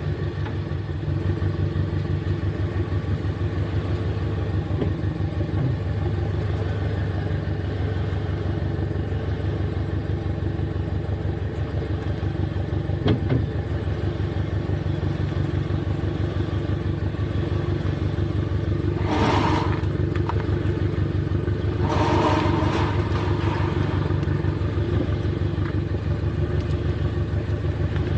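Toyota GT86's flat-four engine running at a steady idle through a Blitz Nur-Spec R aftermarket exhaust, an even low pulsing note. Two short noisy bursts come about two-thirds of the way through.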